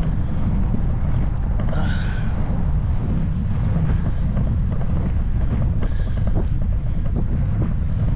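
Wind buffeting the microphone of a camera riding along on a moving bicycle: a loud, steady low rumble, with small knocks and rattles from the bike going over the trail.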